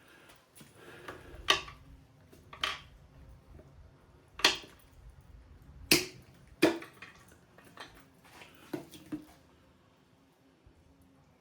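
A series of about eight sharp clicks and knocks at irregular intervals, some with a short ring: tools and engine parts being handled during an engine teardown.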